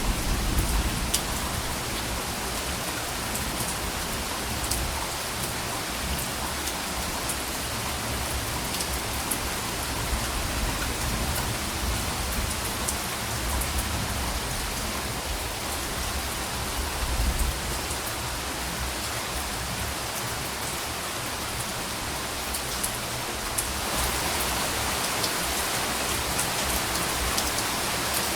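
Steady rain falling, a dense hiss with scattered sharp drop ticks. A low rumble lies underneath and dies away about two-thirds of the way through.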